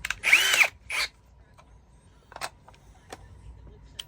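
Power drill pulsed in two short bursts, the motor whirring up and dropping back each time, then a brief third burst about a second in, followed by a few faint clicks.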